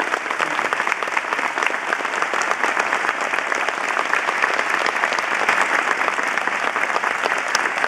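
Large audience applauding at length, a dense steady clapping that follows the end of a live song.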